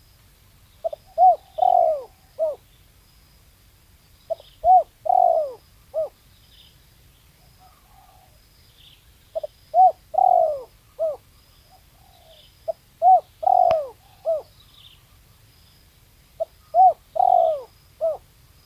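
Spotted dove (tekukur) cooing: a rhythmic phrase of about four coos, short-short-long-short, repeated five times about every four seconds. Faint high chirps repeat steadily behind it.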